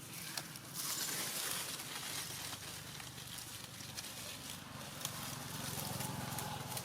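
Outdoor ambience: a steady low hum under a hiss, with scattered light clicks.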